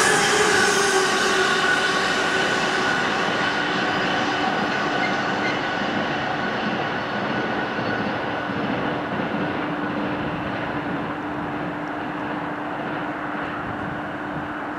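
A Pendolino electric train and a container freight train running away along the main line, the noise of wheels on rails fading steadily. A high whine dies out within the first few seconds, and a steady low hum sets in about three seconds in.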